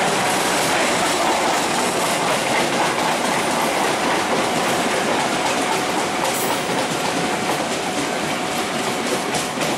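Train running past along the platform, its steel wheels rumbling and clattering on the rails, with a faint steady whine in the middle and a quick run of rhythmic wheel clicks over the rail joints near the end.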